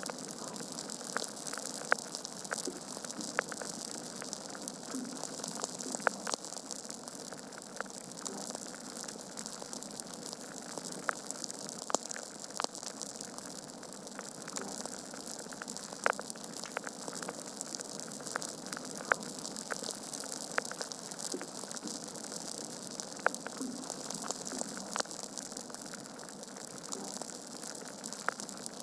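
Log fire crackling in a fireplace: a steady hiss of burning with irregular sharp pops and snaps a few times every couple of seconds.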